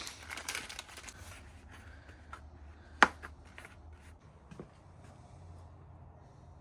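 Hand-handling noises from a new oil filter being unwrapped and fitted: a brief rustle of packaging, then scattered small taps and one sharp click about three seconds in.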